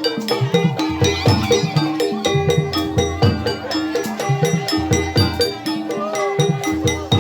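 Gamelan-style ensemble music accompanying an ebeg horse-trance dance: drum strokes and struck pitched metal or bamboo keys in a quick, even rhythm.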